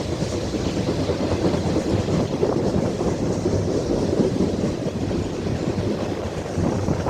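Freight train cars rolling past, a steady low rumble with the continuous clatter of steel wheels on the rails.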